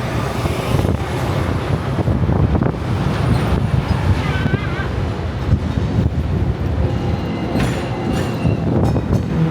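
Continuous low rumble of vehicles in busy city traffic, with faint voices.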